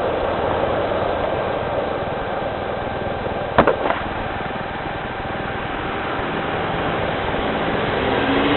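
Steady downpour of rain, a constant hiss, with two or three sharp knocks a little past the middle.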